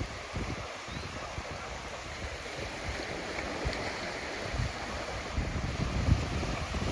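Gentle sea waves washing onto a beach as a steady hiss of surf, with wind buffeting the microphone in low, uneven rumbles that grow stronger about two-thirds of the way through.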